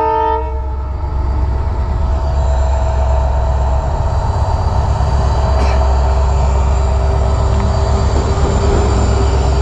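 Freight train passing a level crossing: the locomotive's horn cuts off about half a second in, then a loud, steady low rumble as the train rolls through.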